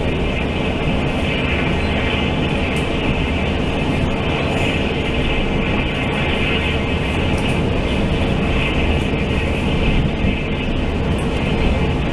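Steady running noise inside a Taiwan Railway Fu-Hsing express passenger coach at speed: the wheels rumbling on the rails, even and unbroken.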